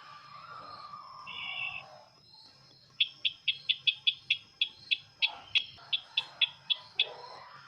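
Sisintar ladang bird calling: a series of sharp, high chip notes about three to four a second from about three seconds in, after a short buzzy note near the start.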